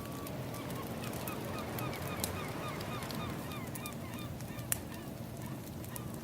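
A flock of birds calling, many short calls several times a second, overlapping one another. Under them run scattered sharp crackles from a wood fire and a steady low wash.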